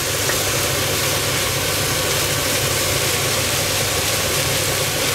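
Mushrooms, bacon and vegetables sizzling steadily in a frying pan while being stirred with a wooden spatula, over a steady low hum.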